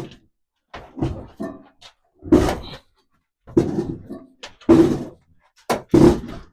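A heavy gas boiler being shoved across a concrete floor in short pushes, its base scraping and thudding about six times at uneven intervals.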